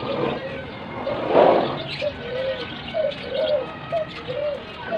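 Pigeons cooing, a run of short low rising-and-falling coos repeating over and over. A brief louder rushing noise comes about a second and a half in.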